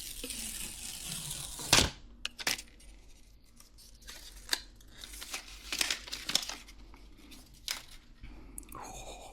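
Protective paper wrap being peeled and crinkled off a new phone: a long tearing rustle that ends in a sharp click about two seconds in, followed by scattered light taps and crinkles of handling.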